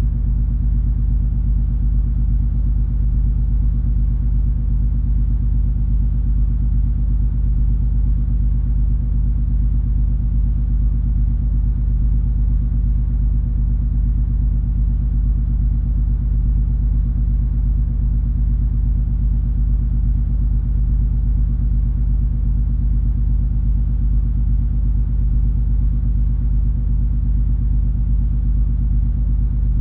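Cruise ferry MS Color Magic's engines and machinery giving a steady, deep rumble with a constant low hum, heard aboard while the ship is under way.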